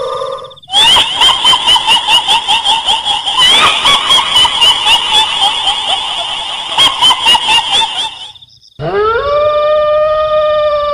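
Horror sound-effect mix: a shrill, rapid cackling run of about five short pulses a second that breaks off about eight seconds in, then a long howl that rises and holds, over a faint high whine.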